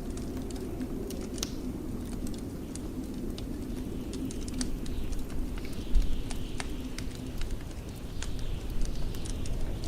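Wood fire crackling with scattered sharp pops over a steady low rush of blizzard wind; one louder pop about six seconds in.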